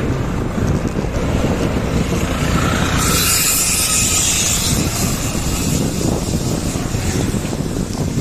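Wind rumbling on the microphone of a cyclist riding along a road. About three seconds in, a louder high hiss rises and lasts a couple of seconds, then dies away.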